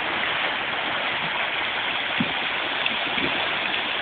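River rapids rushing steadily, with a couple of faint low knocks about two and three seconds in.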